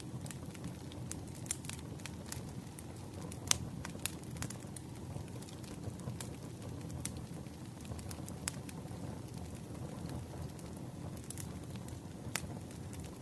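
Wood campfire crackling: a steady low rush of flames with irregular sharp pops and snaps, the loudest about three and a half seconds in.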